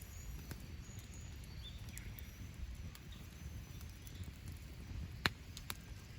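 Wood campfire crackling, with two sharp pops about five seconds in, over a steady low rumble. Faint bird chirps sound in the background.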